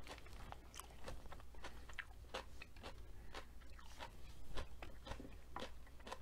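A person chewing food close to the microphone, with many short, irregular clicks from the mouth.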